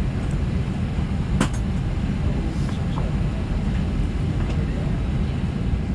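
Steady low rumble of an Airbus A320 cabin on the ground, from the air-conditioning system running, with one sharp click about a second and a half in.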